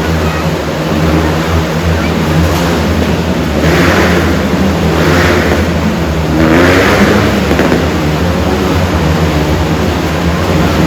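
Motorcycle engines running and revving as riders circle inside a steel globe, rising and falling in surges.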